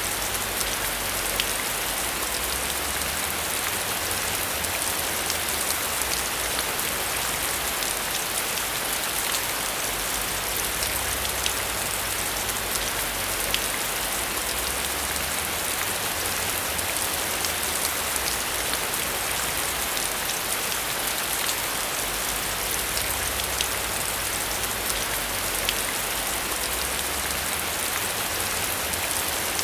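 Heavy rain falling steadily, a dense hiss full of sharp individual drop ticks, with a low rumble that swells and fades underneath.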